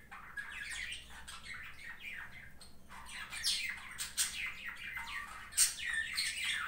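Small birds chirping in the background: many short calls, each sweeping down in pitch, coming thick and fast and busiest from about three seconds in.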